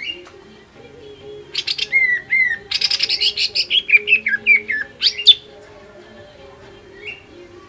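Cucak ijo (green leafbird) singing. About a second and a half in, it breaks into a loud, rapid run of sharp chirps and down-slurred whistled notes that lasts about four seconds, with a few softer single calls before and after.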